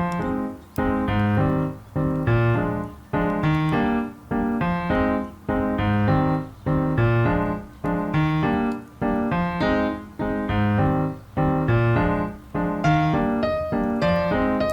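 Background piano music: chords struck in a steady, even rhythm, each note dying away before the next.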